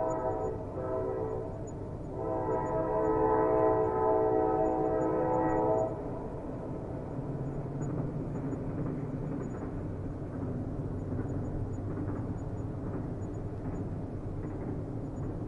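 Train horn sounding a held chord twice: a blast ending just after the start, then a longer one from about two seconds in that cuts off sharply near six seconds. A steady low rumble of the train's running carries on underneath and after.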